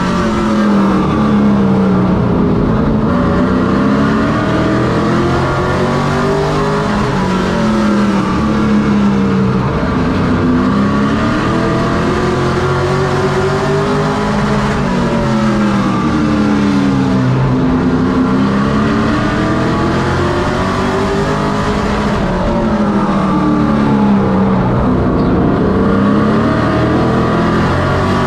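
Race truck engine running laps of a short oval. It revs up on each straightaway and drops off into each turn, rising and falling in a repeating cycle about every six to seven seconds.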